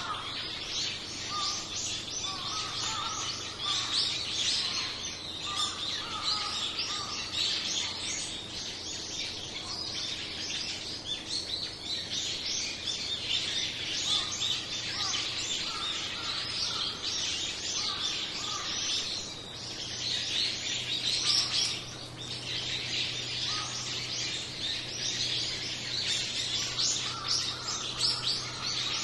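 A large flock of small birds chirping and calling together: a dense, unbroken chatter of many overlapping high chirps, with shorter lower calls breaking in now and then.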